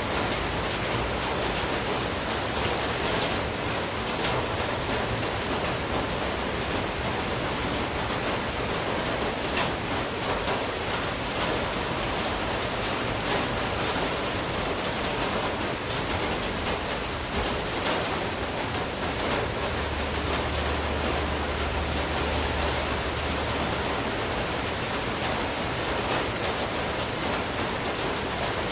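Monsoon rain falling steadily: an even, unbroken hiss with faint sharper drop ticks. A low hum joins for a few seconds about twenty seconds in.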